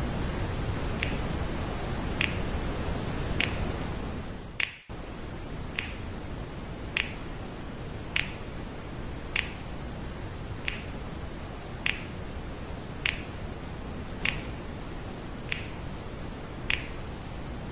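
Steady rushing noise of a waterfall, with a short sharp click repeating evenly about every 1.2 seconds. The sound drops out briefly about five seconds in, and the clicks keep their pace across the gap.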